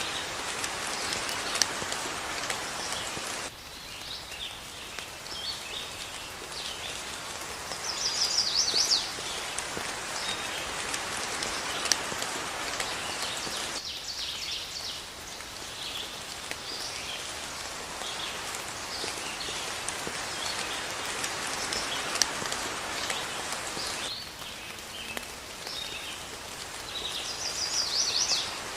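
Steady rain with birds calling over it, and a louder rapid trill about eight seconds in and again near the end. The rain's texture changes abruptly about every ten seconds.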